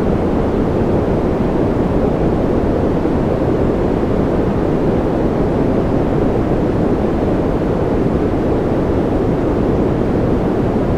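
Steady white-noise ambience track: an even, unbroken dull rushing hiss, weighted toward the low end with little treble.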